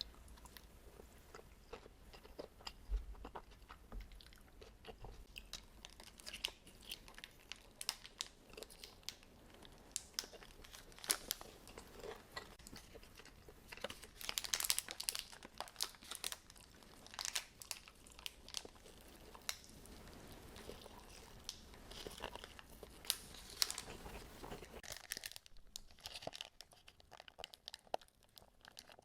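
A person eating close to the microphone: bites and chewing with many sharp crunches, busiest around the middle.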